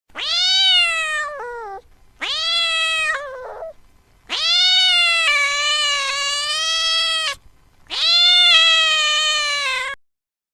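Cat meowing four times in long, drawn-out calls, each rising then sagging in pitch; the third call is the longest.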